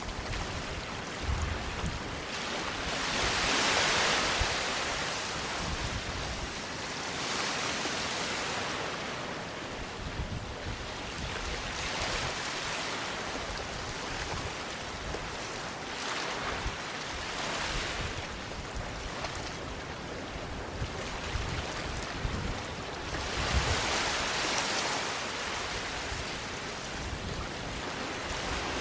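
Sea waves breaking and washing up a sandy beach, the surf rising and falling every few seconds, loudest about four seconds in and again near the end.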